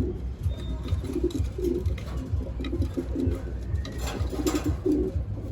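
Racing pigeon cock cooing over and over in short low phrases, the courtship coo of a male worked up to mate with a newly paired hen. A brief rustle about four seconds in.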